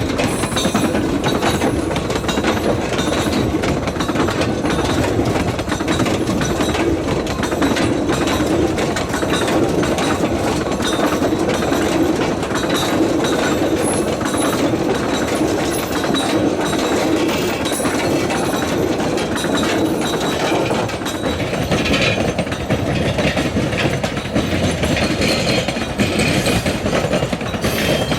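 Narrow-gauge sugar cane train rolling past, its wagons clattering over the rail joints with a steady clickety-clack.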